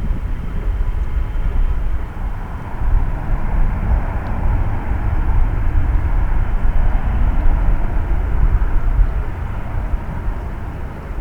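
Jet airliner's engines at takeoff power, a continuous rushing roar over a low rumble that swells to a peak mid-way and then eases off as the aircraft departs.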